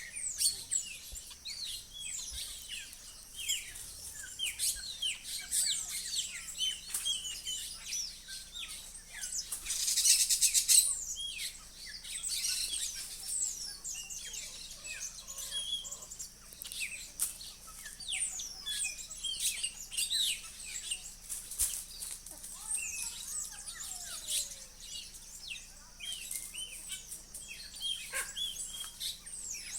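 Many small birds chirping and calling at once, short overlapping chirps with no pause, and a louder burst of rapid calls about ten seconds in. A steady faint high hiss runs beneath them.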